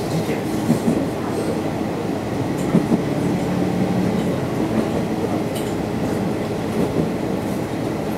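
Sanriku Railway diesel railcar running along the line, heard from on board: a steady engine drone and rumble of the wheels on the rails, with an occasional knock over the rail joints.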